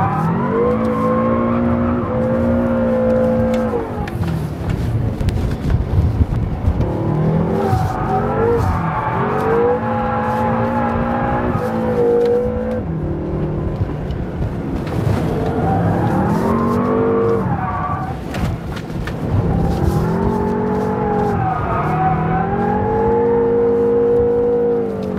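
BMW M5 drifting: the engine revs hard and holds high for a few seconds at a time, dropping briefly between holds as the throttle is lifted, with the rear tyres squealing as they spin.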